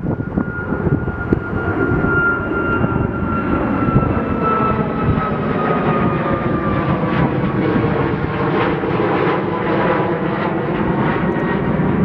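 Jet airliner passing, a steady engine rumble with a whine that falls slowly in pitch as it goes by. Wind buffets the microphone near the start.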